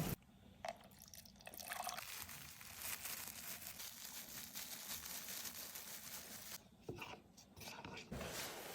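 Faint crackling and bubbling of chicken cooking in a pan, dropping away briefly a little before the end.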